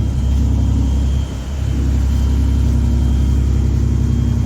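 Inboard engine of a small passenger water-taxi boat running steadily underway, a deep, even hum that dips briefly about a second in.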